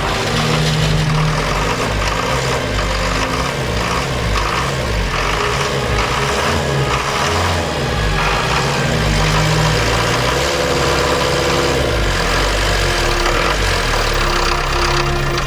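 1981 Land Rover Series III's diesel engine running steadily after being restarted.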